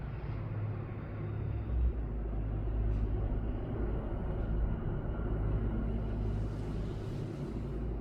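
Low, steady background rumble that swells and eases slightly with no distinct events.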